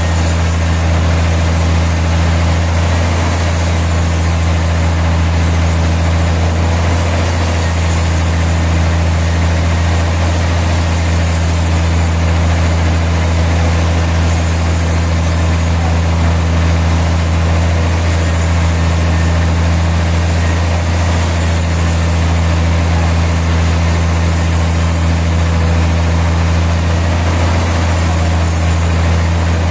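Sawmill machinery running steadily: a constant low engine hum with a noisy wash over it, no change in speed throughout.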